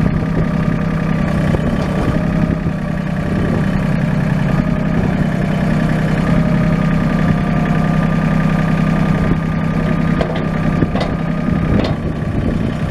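Mahindra 1626 HST compact tractor's three-cylinder diesel engine idling steadily, with a faint steady whine above the engine note. A few short knocks come near the end.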